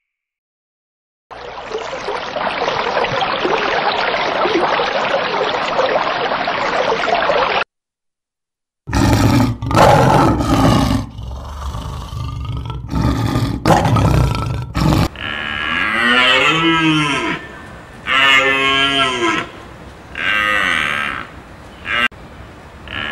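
A run of different animal calls. First comes one long, harsh, noisy call lasting about six seconds. After a short gap there are loud, low calls in bursts, then pitched calls that rise and fall, repeated about every two seconds.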